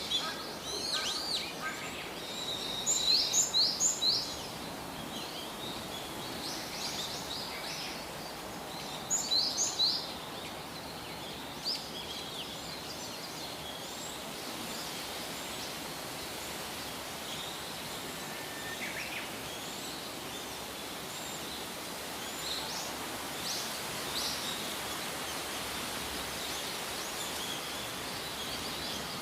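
Steady outdoor background noise with birds chirping. The loudest calls come in two short runs of quick high chirps, about three seconds in and again about nine seconds in, with scattered single chirps after.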